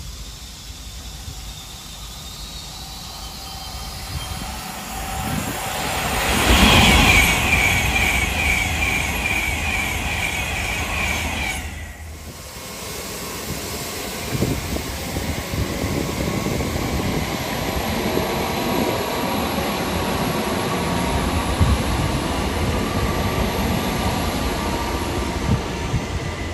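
A train passing at speed, rising to its loudest a few seconds in. After a sudden break about twelve seconds in comes a steady rumble of a train running past, with the clatter of wheels on the rails.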